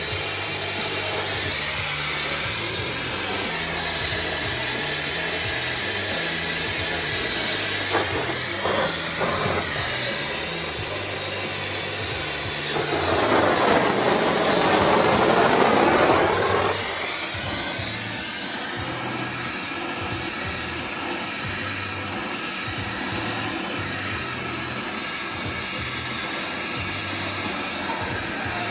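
Oxy-propane torch flame hissing steadily as it heats a dent in a compressed-air-filled motorcycle exhaust pipe, with a louder, fuller rush for about four seconds midway. Background music plays underneath.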